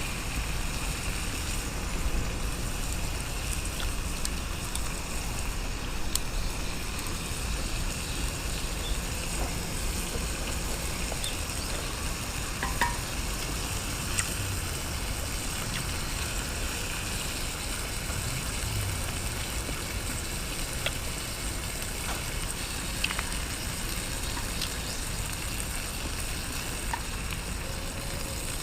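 Meat sizzling on a grill over a fire pit: a steady frying hiss with scattered small pops.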